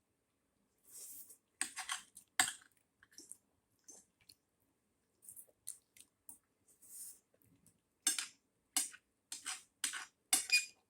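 Eating sounds at a meal: spoon and fork clicking and scraping against plates, with scattered sharp clinks that come quicker and closer together in the last few seconds.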